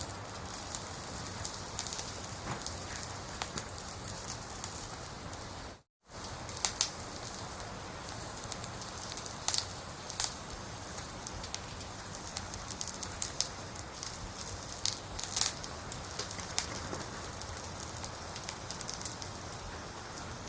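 Wood campfire burning: a steady hiss with scattered crackles and a few sharp, louder pops. The sound drops out completely for a split second about six seconds in.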